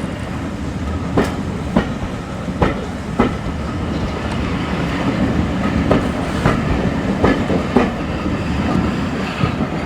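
A train running on the rails: a steady low rumble, with irregular sharp clicks as the wheels cross rail joints.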